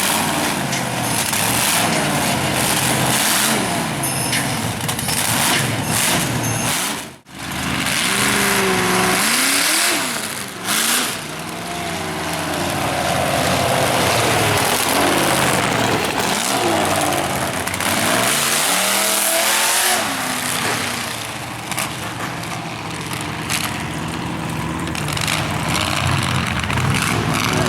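Mud truck's big engine revving hard, its pitch rising and falling several times, under a loud rushing noise. The sound cuts out briefly about seven seconds in.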